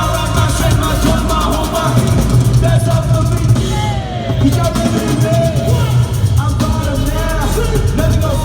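Loud live worship band playing rock-style music with a full drum kit and bass, with voices singing over it.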